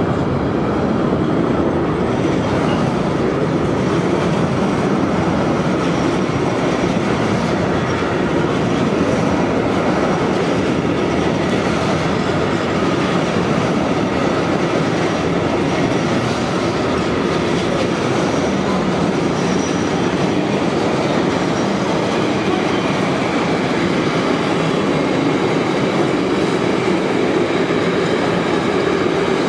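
Intermodal freight train of container and truck-trailer wagons rolling past close by: a steady rumble of steel wheels on rail, with brief faint high squeals now and then.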